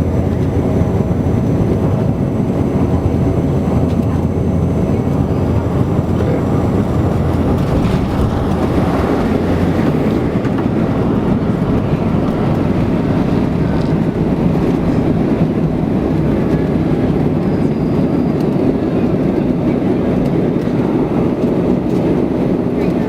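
Cabin noise inside a Bombardier Q400 turboprop airliner: the steady drone and rumble of its Pratt & Whitney PW150A engines and propellers, with airflow noise. A steady tone in the hum fades about seven seconds in.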